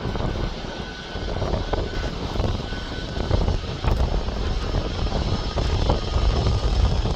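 Airliner engines running, with a faint steady whine in the first half and the low rumble growing louder about four seconds in. Gusty wind buffets the microphone throughout.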